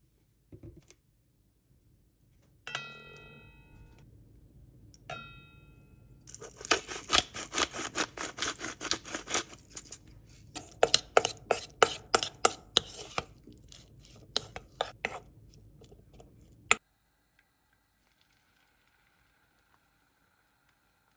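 Two ringing clinks of dishware, then a knife chopping rapidly on a cutting board in two runs with a short pause between them, stopping suddenly.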